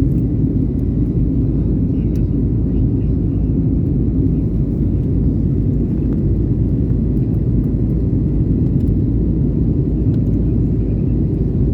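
Airliner engines and rushing air making a steady low rumble, even in level throughout.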